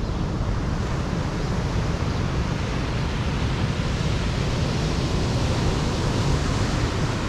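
Rough surf breaking on a beach under strong wind, a steady roar with wind buffeting the microphone in a low rumble.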